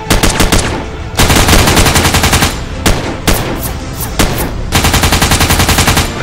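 Automatic rifle fire: rapid bursts of shots, a short one at the start, a long one about a second in, then a few single shots and another long burst near the end.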